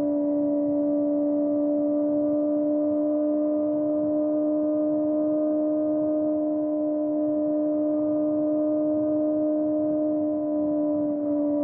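Kawasaki ZX-4RR inline-four through a Trick Star Ikazuchi slip-on exhaust, held at steady high revs while riding, making one unbroken drone that sags slightly in pitch near the end. A low rumble of wind and road runs underneath.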